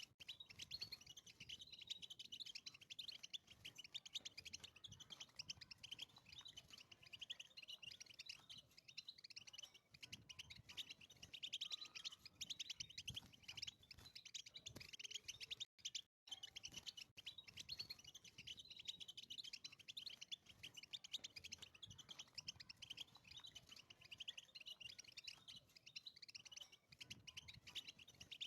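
European goldfinch singing a fast, continuous twittering song of short chirps and trills, breaking off for a moment about halfway.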